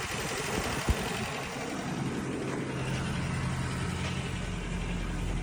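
1989 Toyota pickup's 22R four-cylinder engine idling steadily, with a single short knock about a second in.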